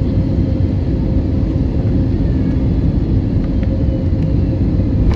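Steady low rumble inside the cabin of an Airbus A320neo rolling on the ground after landing, with a faint steady hum above it.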